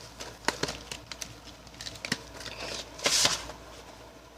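Plastic VHS tape cases being handled, giving a few sharp clicks and taps, with a short scraping rustle about three seconds in.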